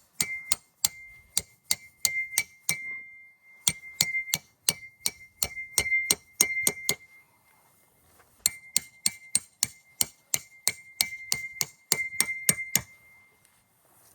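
Repeated hammer blows on metal, each strike ringing with a high, clear tone, in three quick runs separated by short pauses.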